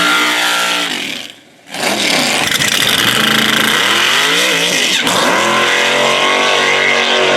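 Drag racing car engine at full throttle, with the pitch climbing as it accelerates. The sound breaks off briefly about a second and a half in. About five seconds in, the pitch drops sharply at a gear change and climbs again.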